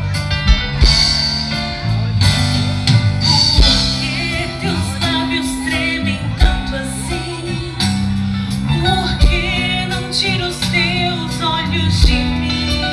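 Live band music from a sacred pop song, with guitar over bass and a regular drum beat.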